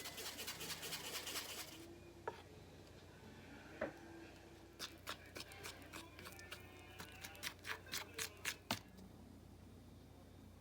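Kitchen handling sounds: a quick run of light clicks and rustles for about two seconds, a couple of single taps, then a string of about ten sharp light taps, as if from working food or utensils on a counter.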